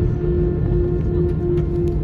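Airbus A319 cabin noise while rolling on the ground: a heavy low rumble with a steady droning hum over it and a few faint rattling clicks.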